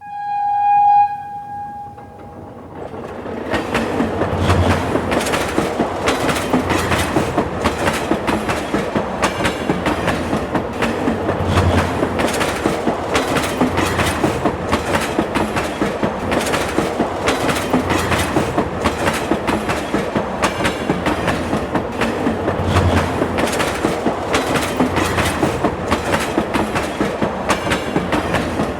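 A train horn sounds one held note for about two seconds, then a train runs on the rails with a steady clickety-clack of wheels over rail joints.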